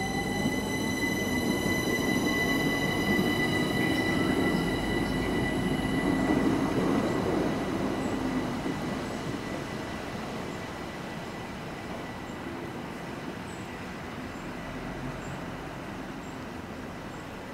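Electric multiple-unit train accelerating: its traction motor whine rises steadily in pitch over the first four seconds or so, over a steady high-pitched tone. The rumble of the train peaks about six seconds in, then fades as it draws away.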